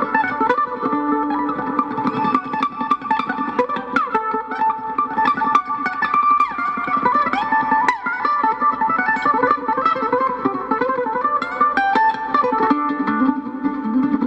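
Fast, continuous mandolin lead playing many quickly picked notes, with a few sliding notes, over a string-band backing.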